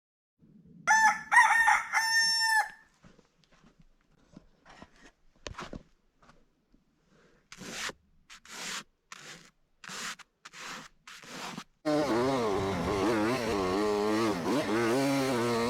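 A rooster crows once, about a second in. Faint scattered clicks and rustles follow, and near the end a motorcycle engine starts running, its pitch wavering.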